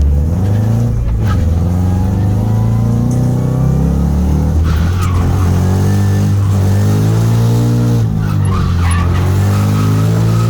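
Scion FR-S drift car's engine held at high revs, its pitch swinging up and down with the throttle, with tyres skidding and squealing in short bursts about a second in, around five seconds in and near the end.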